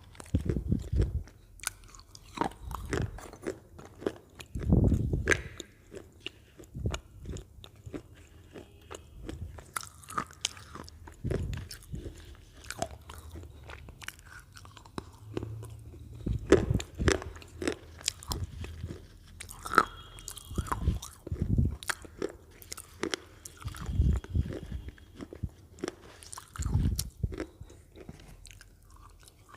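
Close-miked crunching and chewing of Lay's potato chips: many sharp, irregular crackles with a heavier crunch every few seconds.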